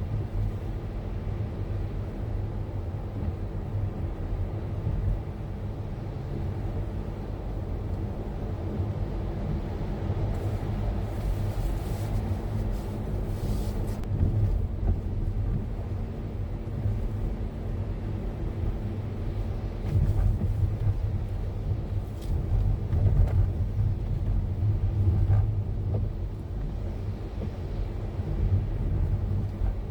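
Car running on the road, heard from inside the cabin: a steady low rumble of engine and tyres, with a few brief louder swells of road noise.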